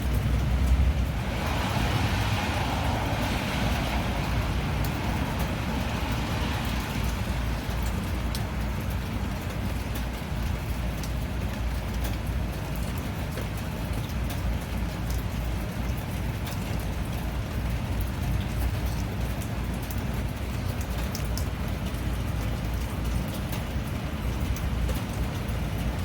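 Steady rainfall with a constant low rumble beneath it and scattered drop ticks. A louder hiss swells about a second in and fades out over the next several seconds.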